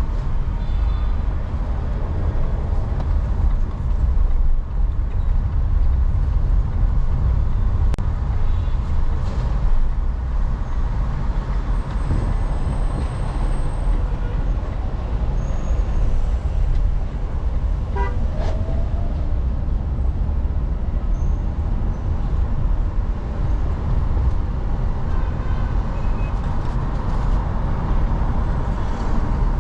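Steady road and traffic noise from a car driving on city streets, mostly a low rumble. A short higher-pitched sound comes through about eighteen seconds in.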